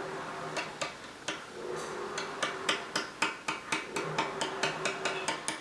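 Light, quick taps along a rawhide-backed wooden bow limb, about three to five a second, sounding the glued backing for air pockets. The taps sound even throughout, with no hollow spot: the glue-up has closed the air pocket.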